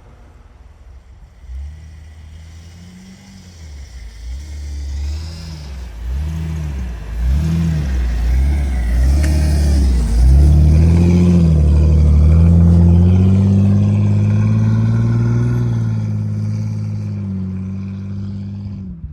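A 4x4's engine revving up and down in several short swells, then held at higher revs for several seconds and easing back near the end.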